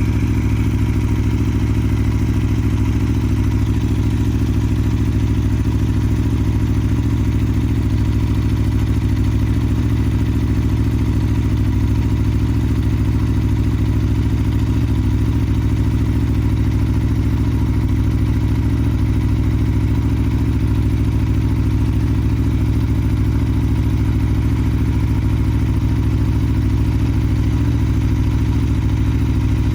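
Sport motorcycle engine idling steadily at an even, unchanging pitch.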